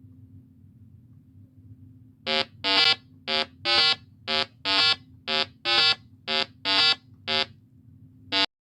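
Donkey braying: about five hee-haws in a row, each a short harsh note followed by a longer one. It starts about two seconds in and cuts off abruptly near the end.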